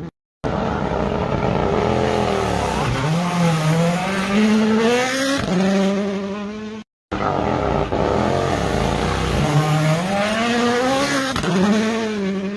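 Rally car engines at full throttle in two short clips, each starting abruptly. In each clip the engine note climbs, drops sharply on lifts and gear changes, and climbs again.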